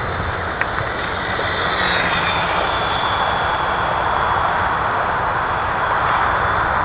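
Electric motor and propeller of a ParkZone P-51 Mustang RC model plane running in flight: a steady whining hiss that grows a little louder after about two seconds.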